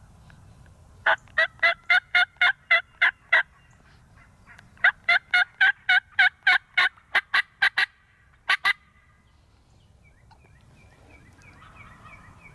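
Turkey yelping: a run of about eight sharp yelps, a short pause, then a longer run of about a dozen at roughly three to four a second, and a quick double note near the end.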